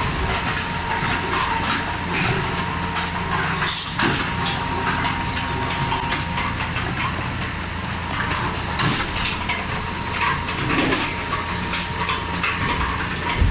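Cap foam-liner inserting machine for 5-gallon water-bottle caps running: a steady motor hum with a thin whine that fades about halfway, and irregular mechanical clicks and knocks.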